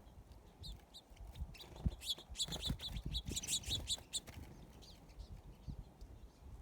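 Small bird chirping: a series of short, high chirps that come quickest about two to four seconds in, with a few soft low thumps alongside.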